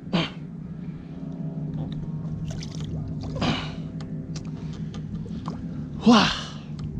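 Steady low drone of a boat motor running, with a few short bursts of noise over it; the loudest comes near the end.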